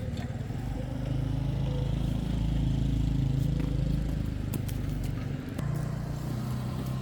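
An engine running steadily, getting louder about a second in and easing back off after about five seconds.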